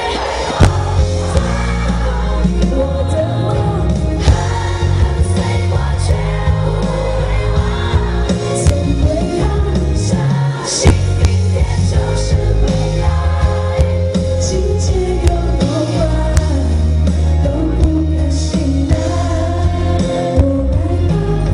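Live Mandopop performance: a woman singing a ballad-style pop song over a band with bass and drums.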